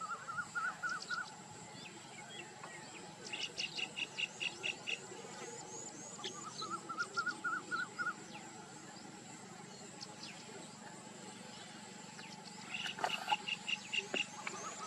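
Natural outdoor ambience: a steady insect drone under repeated series of short animal calls, some as runs of rising notes and others as quicker runs of higher notes, each series lasting one to two seconds.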